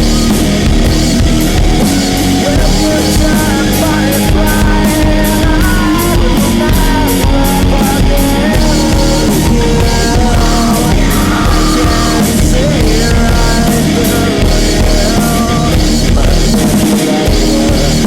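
Loud rock music, an instrumental break with steady drum-kit beats and guitars, and a bending lead melody line over them.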